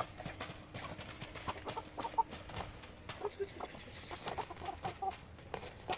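Chickens clucking, in short, scattered notes, with small clicks and rustles around them.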